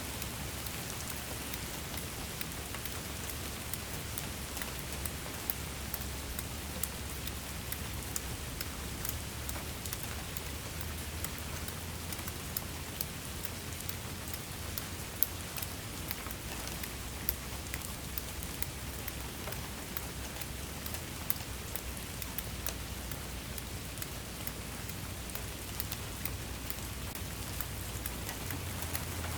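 Steady rain falling, an even hiss with many individual drops pattering sharply on a surface, over a low rumble.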